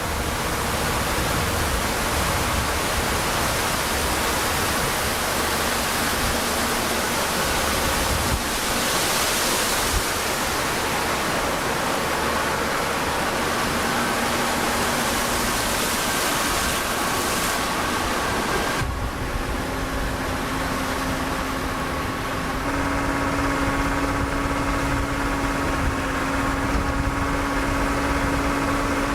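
Steady loud rushing noise. About nineteen seconds in it changes, and a low steady hum, like an engine running, joins it.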